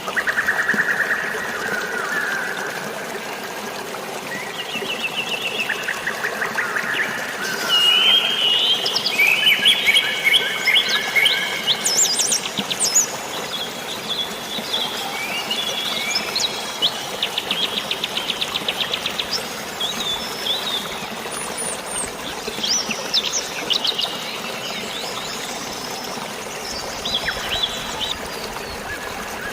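Several birds chirping and trilling over one another, busiest a third of the way in, over a steady hiss of drizzling rain and flowing water.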